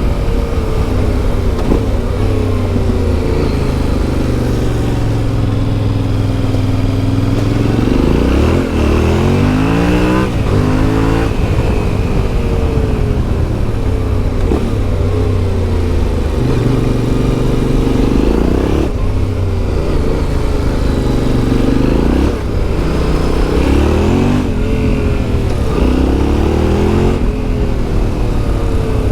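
Yamaha Ténéré 700's 689 cc CP2 parallel-twin engine through an Akrapovic exhaust, ridden off-road. Its revs climb and drop repeatedly, with several sharp rises.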